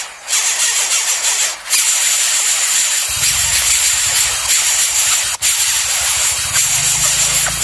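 Loud steady hiss, mostly high-pitched, broken by brief dropouts; a low hum joins about three seconds in.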